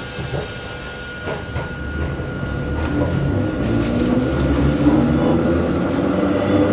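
Hakone Tozan Railway Moha 1 electric railcar with nose-suspended SE121-A traction motors, picking up speed: the motor and gear whine grows louder and edges up in pitch from about two seconds in. A few knocks from the wheels and rail joints come in the first half.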